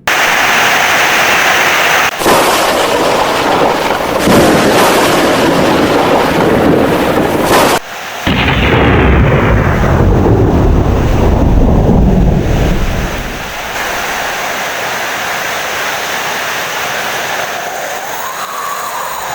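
Heavy rain with thunder. A loud, low rumble of thunder builds about eight seconds in and dies away a few seconds later, leaving a steady wash of rain.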